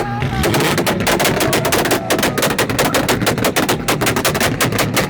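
Car exhaust firing a rapid, continuous string of loud bangs and crackles, about six or seven a second, as from a tune set up to pop and shoot flames.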